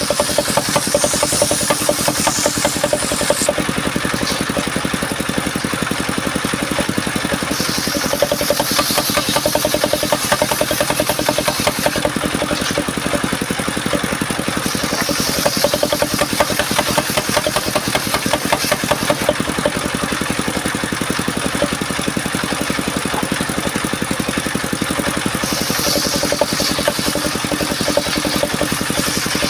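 Engine of a portable circular sawmill running steadily at a fast, even pulse, with a higher sound that comes and goes every few seconds as the saw works the mahogany.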